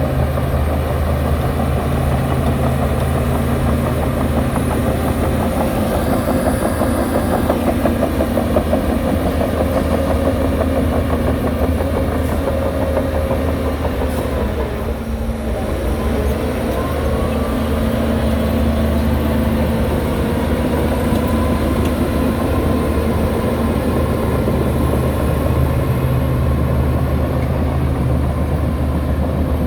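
Heavy diesel engine of earthmoving machinery running steadily under load. It dips briefly about halfway through, then a rising whine comes in.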